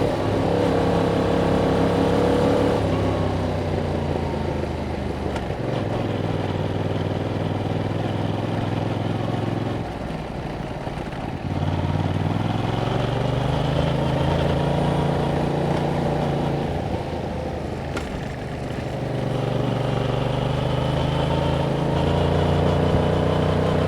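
A 2021 Yamaha MT-07's parallel-twin engine through its stock exhaust, on the move. Its note falls off about three seconds in and sags again around ten seconds, then rises and holds. It eases briefly near eighteen seconds before climbing again.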